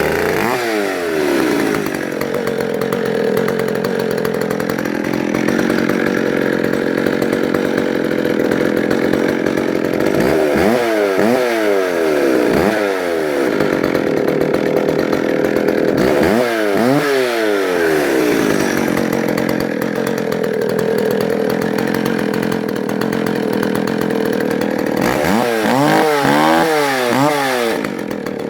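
Vintage McCulloch President two-stroke chainsaw running, warmed past a cold start with the choke off. It holds a steady running note and is revved several times: once at the start, a pair of blips around the middle, another a little later, and a quick series of blips near the end.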